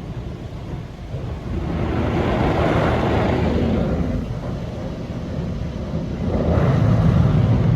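Mark VII ChoiceWash XT soft-touch in-bay car wash running through its cycle: a loud, continuous din of machinery and water that swells about two seconds in and again near the end.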